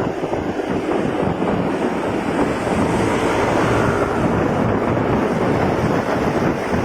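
Steady wind rush buffeting the microphone of a moving motorcycle, with the motorcycle's engine and surrounding road traffic underneath.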